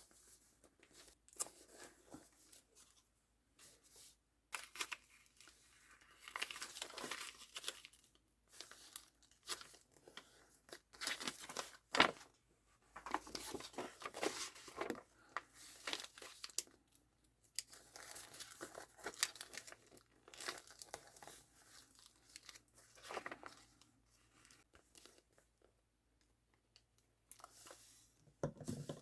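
Paper being torn and crinkled by hand in short, irregular rips and rustles, with one sharp tap about twelve seconds in.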